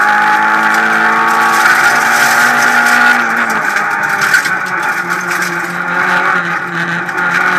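Renault Clio Ragnotti rally car engine heard from inside the cabin, pulling hard at high revs through a special stage. The revs dip a little about halfway through, over a steady rush of tyre and wind noise.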